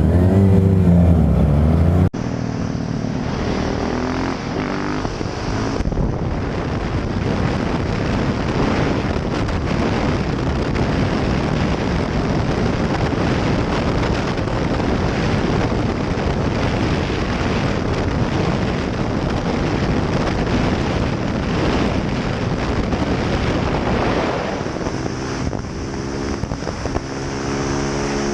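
A vehicle engine running while on the move, under heavy wind noise on the microphone. A louder engine note with rising and falling pitch cuts off abruptly about two seconds in. Near the end the engine pitch climbs in steps as it accelerates.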